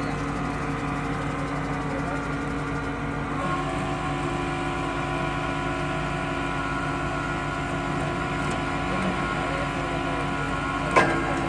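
Borewell drilling rig's engine running steadily, with a single sharp knock near the end.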